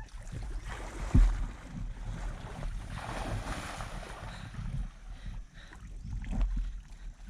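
Wind buffeting the microphone as a steady low rumble with a hiss, with a sharp thump about a second in.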